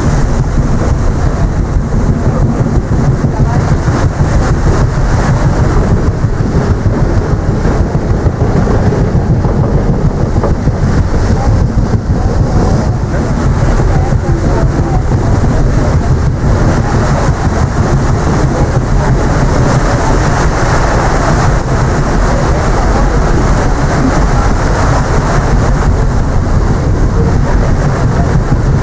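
Steady, loud wind buffeting the microphone on the deck of a ship under way, with the vessel's low running noise underneath.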